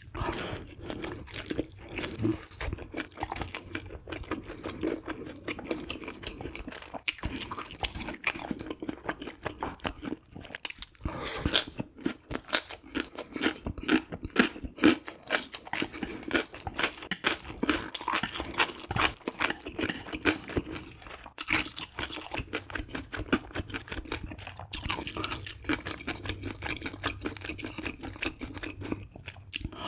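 A person chewing and biting food close to the microphone, with steady irregular crunching throughout.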